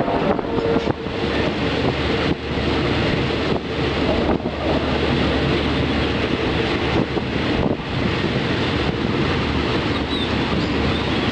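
Diesel-hauled passenger train running at the platform: a loud, steady rail noise with a low steady hum underneath.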